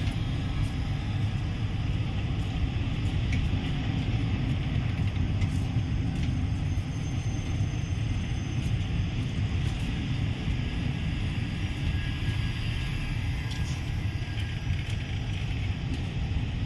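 Steady low rumble of an Indian Railways passenger train, heard from an open coach doorway, with no wheel clatter.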